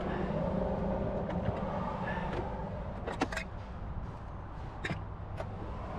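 A steady low hum with a few sharp clicks and knocks, in the middle and near the end.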